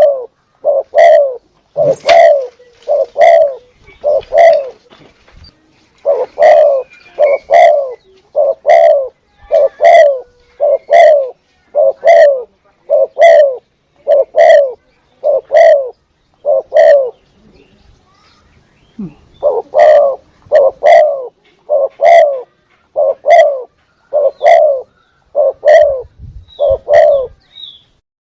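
Spotted dove (tekukur) lure call: a long run of short, low coo notes, repeated about one to two a second, each with a sharp click at its start. The run breaks off twice for a second or two.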